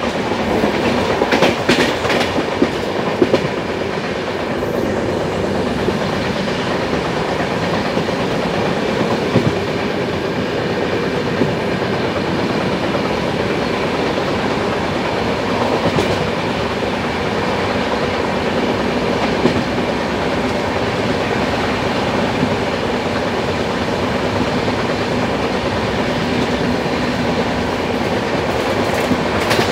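Passenger express train running along the line: a steady rumble and rattle of the coach over the track. Sharp wheel clicks come over the rail joints, several in the first few seconds and a few scattered later.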